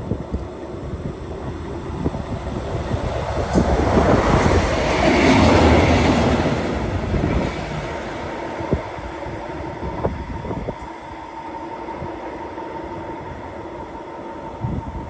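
A train passing on the line: the rail noise grows to its loudest about five seconds in, then fades away.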